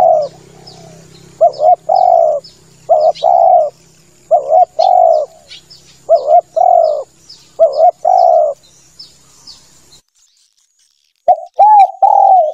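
Spotted dove cooing: a run of about five short phrases of two or three deep coo notes each, roughly one phrase every second and a half, then a pause of about three seconds before the call starts again near the end. Faint high chirps of small birds sound behind the first part.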